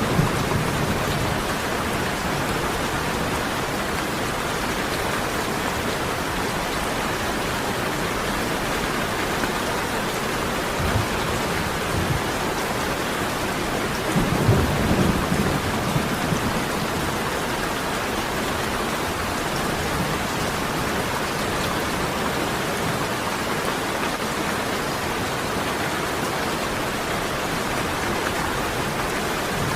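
Steady heavy rain with low rolls of thunder, the loudest rumble about halfway through.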